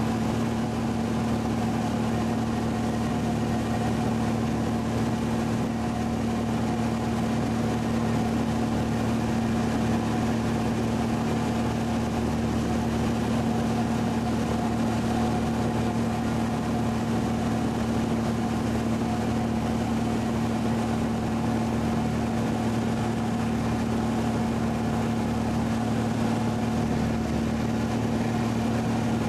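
Light airplane's engine and propeller droning steadily at constant power, one strong steady tone with a noise haze above it.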